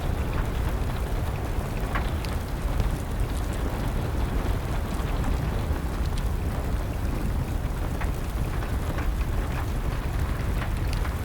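Wood fire crackling with scattered sharp pops over a steady rush of rain.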